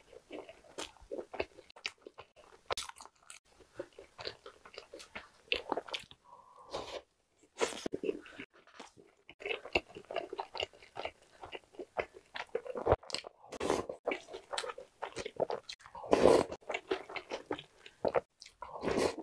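Close-miked eating sounds: wet chewing and crunching of a mouthful of soft ham and cheese sandwich and milk-soaked Jolly Pong puffed-wheat cereal, with irregular smacks and a few louder wet bursts, and a wooden spoon scooping in the cereal bowl.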